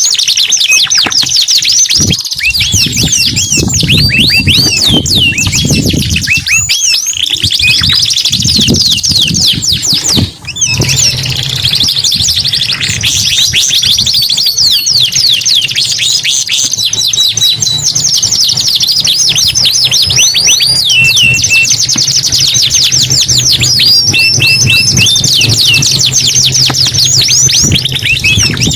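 Domestic canaries singing continuously in fast rolling trills and rapid sweeping notes, with a brief break about ten seconds in. A low steady hum sits beneath the song.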